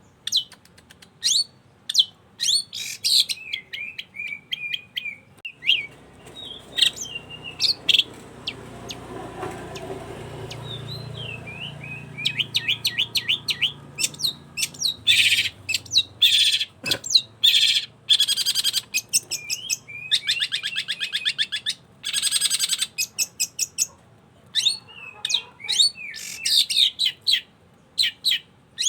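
Long-tailed shrike (cendet) singing continuously: quick sharp chirps and short sweeping notes, broken by several rapid, harsh rattling trills about halfway through and again two thirds of the way in.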